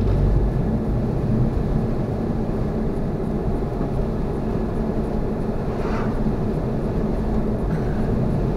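Steady road and engine noise heard from inside the cabin of a Honda CR-V driving on snow tires: a continuous low rumble with a steady hum underneath.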